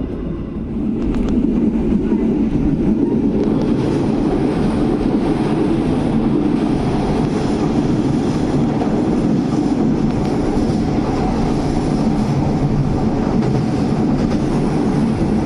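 Passenger train running on the rails: a steady rumble of wheels and carriage that swells about a second in and then holds.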